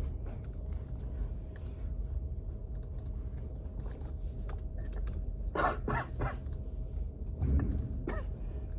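Library room tone: a steady low ventilation rumble with a faint hum. Brief bursts of a person's voice come about five and a half seconds in and again near the end.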